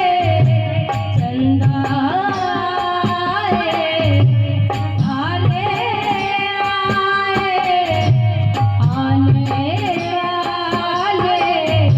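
Dholak drum playing a steady rhythmic cycle under the melody of a sung Indian folk song, with strong low drum strokes returning about every four seconds.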